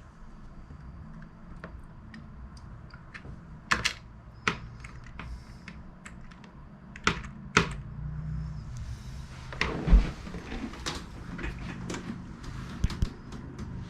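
Scattered clicks of computer keyboard keys being pressed one at a time while navigating the BIOS, with a louder dull thump about ten seconds in.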